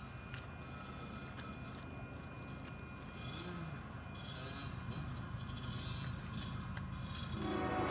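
Canadian Pacific freight train's diesel locomotives rumbling steadily, with occasional sharp clicks, growing louder as the train approaches and rising sharply near the end.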